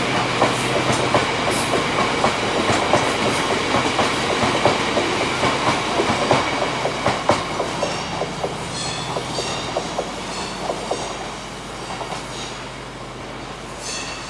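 Freight wagons of a ballast train rolling past, their wheels knocking over rail joints and pointwork in an uneven clatter that thins out and fades as the end of the train draws away. Short high-pitched wheel squeals break in during the second half.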